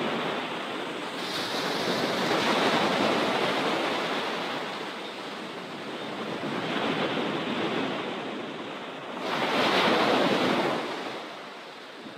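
Sea surf breaking on a sandy beach: a steady wash of breaking waves that swells and ebbs in three surges, the loudest near the end.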